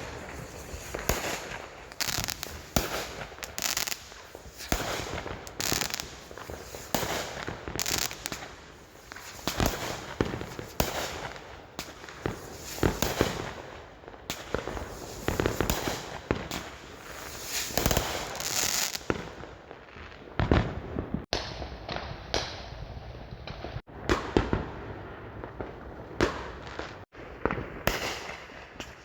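Fireworks going off: many sharp bangs at irregular intervals, often several in close succession.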